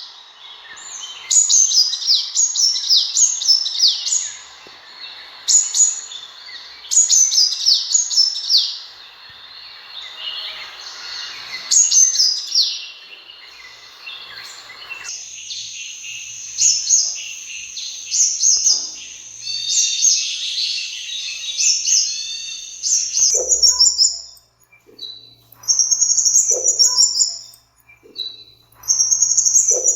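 Sunbird song: repeated short phrases of quick, high, sharp downslurred notes, running into a longer continuous high trill about halfway through and then breaking into short phrases again. A background hiss under the first half cuts off abruptly about halfway.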